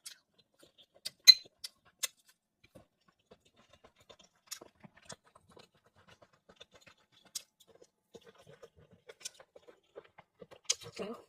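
Scattered small clicks and taps from handling and eating seafood, with one sharper click about a second in and faint mouth and chewing sounds near the end.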